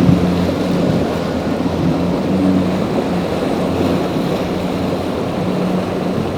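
Motorboat engine running with a low steady hum, over the rush of waves and wind buffeting the microphone.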